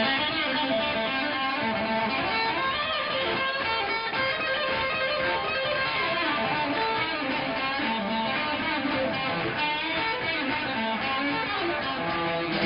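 Live rock music led by fast electric guitar lines.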